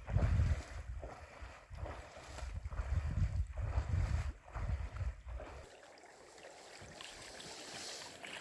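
Wind buffeting a smartphone's microphone in gusts while kayaking on a river, over water sounds from the boat. The wind dies down a little past halfway, leaving a quieter, even hiss of water.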